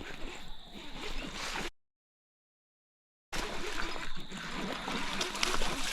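Water splashing and gurgling in a shallow creek. The sound drops out to dead silence for about a second and a half partway through, then resumes.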